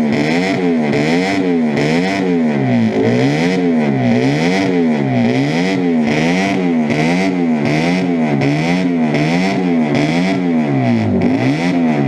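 Honda RC145 replica racer's CB160 parallel-twin engine, bored out to 175cc, being blipped over and over through open megaphone exhausts. The revs rise and fall about one and a half times a second, a loud, deep bellow.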